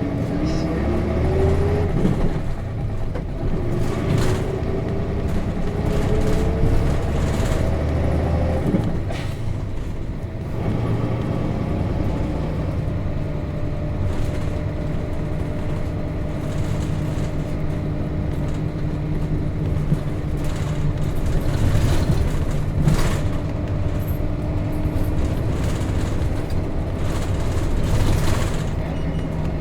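Nissan Diesel KC-RM211GSN bus's FE6 inline-six diesel engine heard from inside the bus while pulling away. The engine pitch rises through a gear, breaks about two seconds in as the driver shifts, and rises again. After another shift at around nine seconds, the engine settles into a steady cruise.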